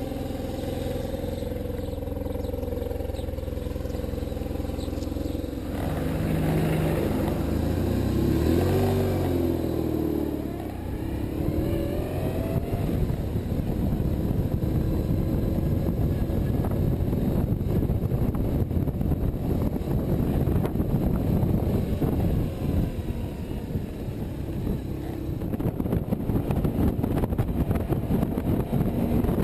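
BMW R1150RT boxer-twin motorcycle engine idling steadily, then revving up through the gears as the bike pulls away about six seconds in. After that, wind rush on the microphone and road noise take over as it rides on.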